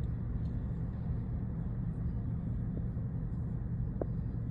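Idling vehicle engine: a steady low rumble with no change in level, and a faint short tone about four seconds in.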